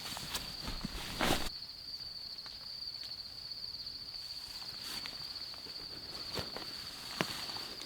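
A steady high-pitched insect trill, with a few sharp clicks and a brief rustle about a second in.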